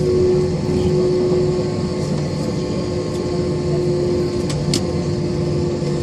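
Steady engine drone with a low rumble and a held hum, and a short hiss about four and a half seconds in.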